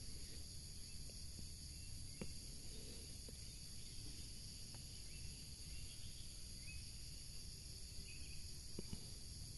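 Steady, high-pitched chorus of insects droning, with a few faint ticks.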